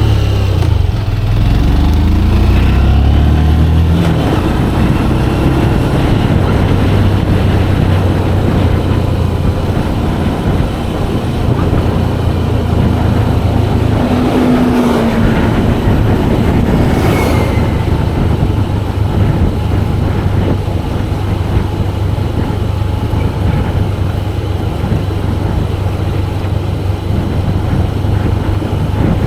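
Motorcycle engine while riding, rising in pitch as it accelerates in the first few seconds, then holding a steady drone with road and wind noise.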